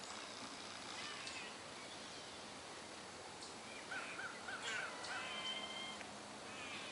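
Wild birds calling over a steady outdoor hiss: a few short chirps, then about four seconds in a quick run of about five rising-and-falling notes, followed by a held, even whistled note lasting about a second.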